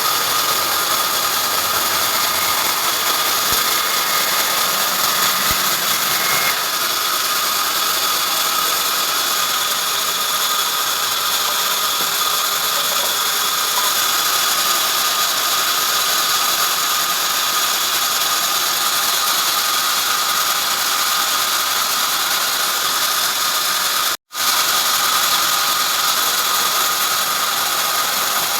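Sawmill machinery running steadily: a loud, even, high-pitched machine noise with a constant whine, dropping out for an instant about 24 seconds in.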